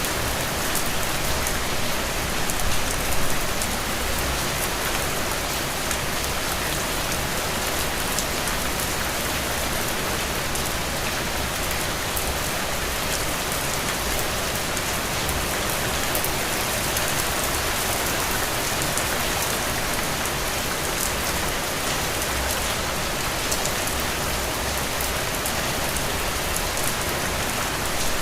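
Heavy rain falling steadily, a dense even hiss of raindrops on surfaces.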